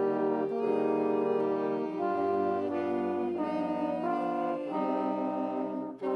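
School band with a strong brass section, trombones and horns prominent, playing held chords that change about once a second, with a brief break just before the end.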